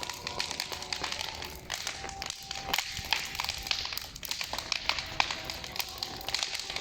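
Large wood bonfire crackling, with many sharp, irregular snaps and pops.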